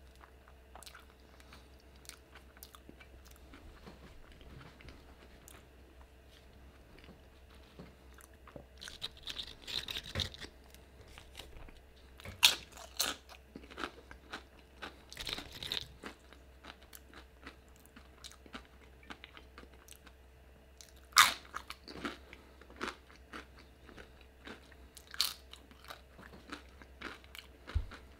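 Close-miked eating: a person biting into and chewing a burrito, with wet mouth clicks and smacks. The chewing comes in bursts, loudest through the middle, with one sharp click about two thirds of the way through.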